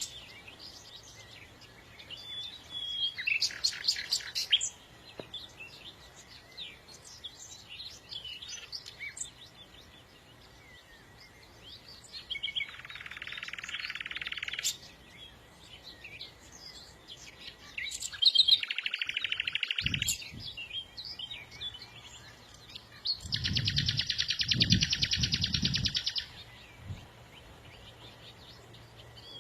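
Songbird singing: scattered high chirps and twitters, broken by three rapid buzzy trills lasting one to three seconds each. A low rumble sounds under the last and longest trill.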